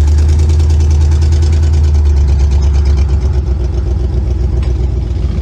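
1962 Chevrolet Impala's 283 small-block V8 running, a steady low drone that is loudest for the first three seconds or so and then eases off slightly.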